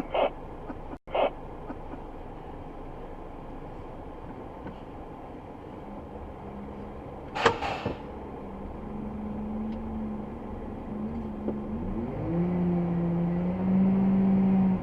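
Scania XT G500 truck's diesel engine running under load at a steady pace, then climbing in pitch from about twelve seconds in as it picks up revs. A single short sharp knock comes about halfway through.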